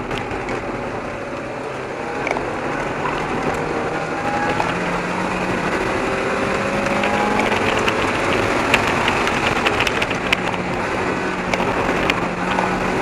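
1994 Mazda Miata's four-cylinder engine revving hard, its pitch climbing and dropping as the car accelerates and brakes between cones, over a steady hiss of tyres throwing water off a wet track. Scattered sharp ticks come in the second half.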